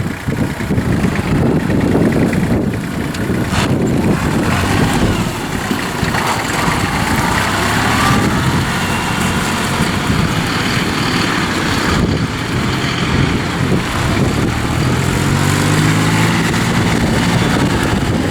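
Kubota L3010 tractor's diesel engine running steadily, its pitch rising for a moment near the end.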